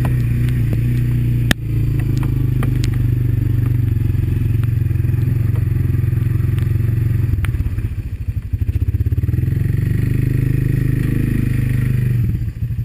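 Honda ATV's single-cylinder four-stroke engine running steadily under way, dropping to a slow, pulsing putter about eight seconds in, picking up again, then falling back to the putter near the end. One sharp knock about a second and a half in.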